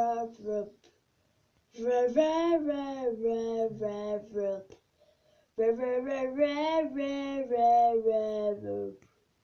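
A high voice making sustained, sung, wordless sounds through the mouth, in three phrases with brief silences between them: the first ends just under a second in, the second runs from about two to five seconds, and the third from about five and a half seconds until near the end, with the pitch sliding gently within each.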